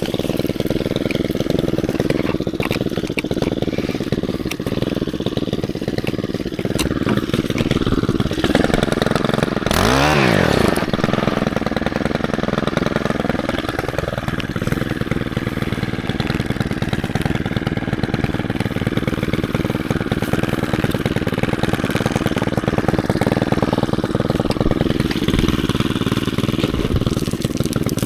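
Stihl KM 131 R combi-engine with a cultivator attachment, running steadily as its tines churn through rocky, weed-grown soil. About ten seconds in the engine speed rises and falls briefly.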